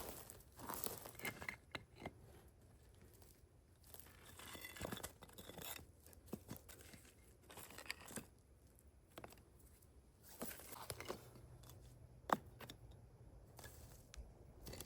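Faint, irregular rustling, crinkling and tearing of some light material being handled, with a few sharp small clicks, the sharpest about twelve seconds in.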